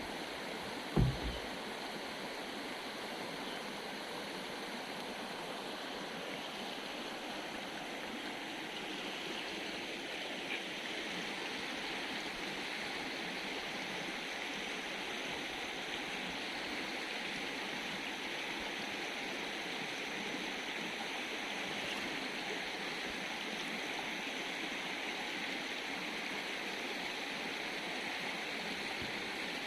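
Forest river flowing with a steady rush of water, with one short low thump about a second in.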